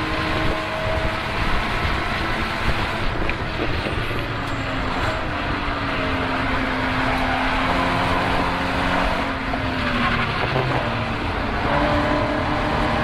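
Car engine at speed on a race track, its note falling and then rising again as engine speed changes, over a steady rush of road and wind noise.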